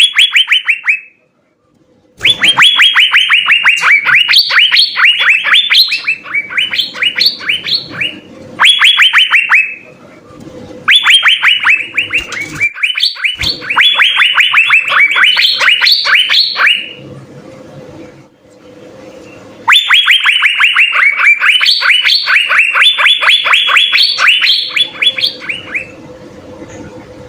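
Asian fairy-bluebird song: long phrases of rapid, downward-sliding whistled notes, several a second, with a few higher notes mixed in. The phrases are separated by short pauses, over a faint steady hum.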